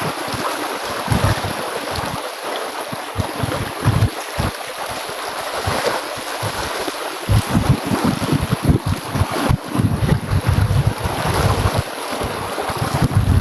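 River rapids rushing steadily, with wind buffeting the microphone in irregular gusts that grow heavier from about seven seconds in.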